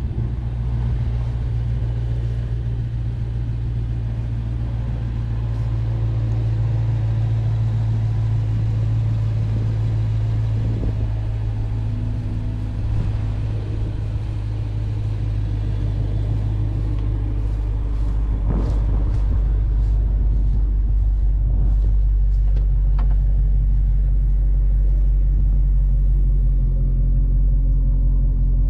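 Challenger Scat Pack's 392 (6.4 L) HEMI V8 idling with a steady low rumble, a little louder from about two-thirds of the way through. A few light clicks come in the later part.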